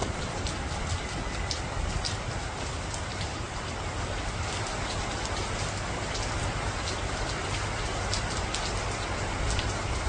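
Floodwater rushing: a steady, even hiss of water with many fine crackles and splashes.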